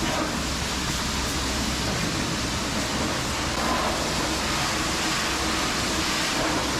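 Pressure washer running, its jet of water spraying steadily against a truck's body, with a steady low machine hum beneath the hiss.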